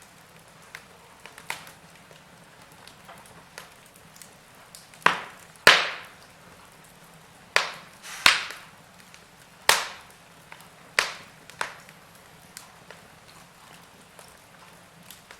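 Fire in a fireplace crackling: a soft steady hiss under irregular sharp pops. The loudest pops come in a cluster through the middle.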